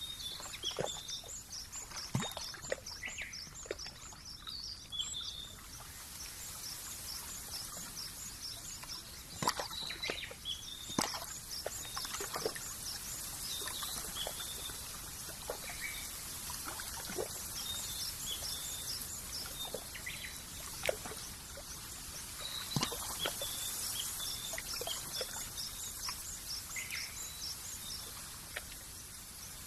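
Countryside nature ambience: small birds chirping over and over, with high rapid trills coming in repeated runs, over a steady background hiss and a few scattered sharp clicks.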